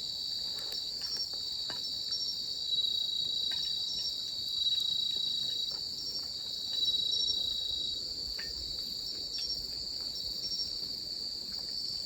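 Chorus of insects trilling steadily and high, with one louder singer coming in several spells of a second or so. A few faint clicks are scattered through it.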